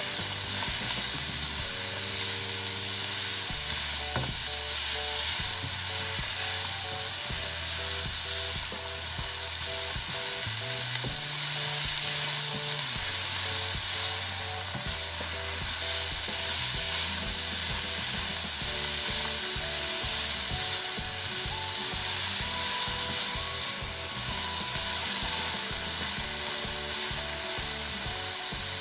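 Asparagus, carrots and sweet peppers sizzling steadily in oil in a frying pan, stirred and turned with a silicone spatula. Background music with a stepping bass line plays underneath.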